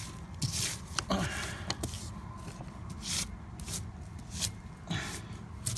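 Irregular scraping and rustling, about nine short swishes, as gloved hands dig packed wet debris out of a leaking spot at the roof's edge.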